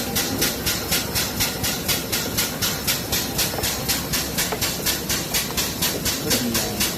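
Air-powered chip vacuum running, a hiss that pulses evenly about five times a second as it sucks up aluminium chips and cutting coolant.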